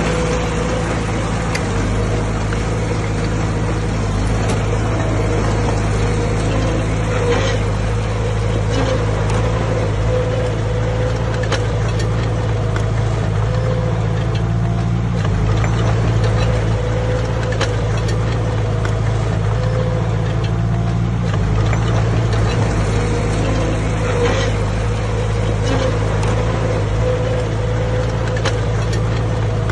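Diesel engine of a Komatsu D20A bulldozer running steadily under work, with a steady low drone, a thin whine over it, and scattered short clicks and knocks.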